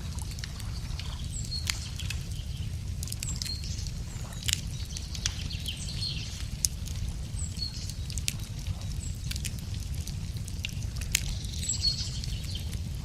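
Wood fire crackling, with sharp pops every second or two over a steady low rush. Small birds chirp again and again in short high calls.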